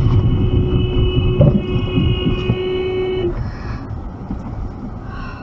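A vehicle horn held on one steady note for about three seconds, then cut off, over a continuous low rumble of road noise.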